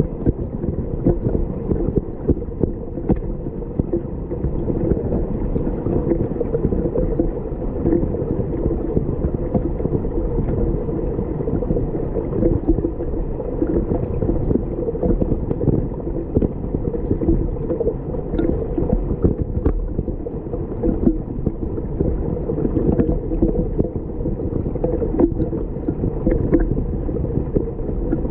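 Muffled, low gurgling and rumbling of flowing river water, heard as if underwater, with scattered faint clicks.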